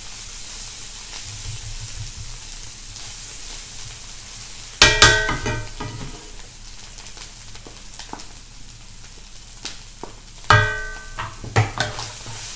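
Chili paste with dried shrimp frying in a hot wok: a steady sizzle with a spatula stirring through it. There are two sharp metallic clanks that ring briefly, about five seconds in and again at about ten and a half seconds, with a few lighter knocks after the second.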